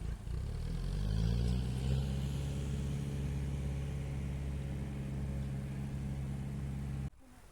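An engine speeds up over about two seconds, then runs steadily at the higher speed, and cuts off suddenly near the end.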